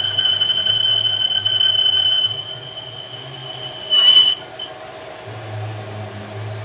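A steady high-pitched metallic squeal over a low machine hum cuts off about two seconds in. A short, sharp metallic hit that rings briefly follows about four seconds in, while the hum carries on.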